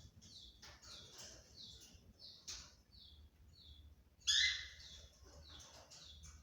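Parakeets chirping: a run of short, quick falling chirps, several a second, with one louder, harsher call about four seconds in.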